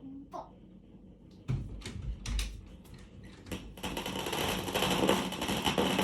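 Firework crackling: a few scattered pops and snaps, then from about four seconds in a dense, rapid crackle of many tiny bursts that grows louder.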